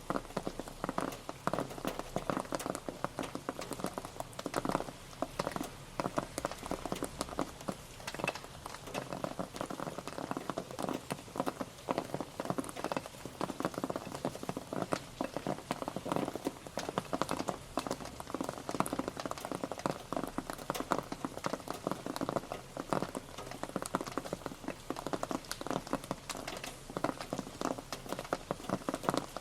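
Rain pattering steadily on a surface: a dense, irregular spatter of drops that keeps an even level throughout.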